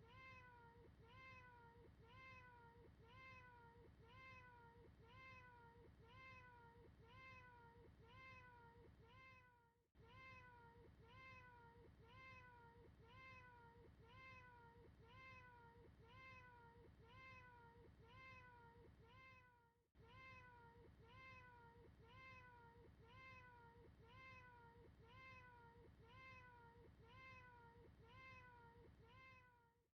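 A cat's meow looped over and over at an even pace, about one and a half meows a second, faint, with a brief break about ten and twenty seconds in.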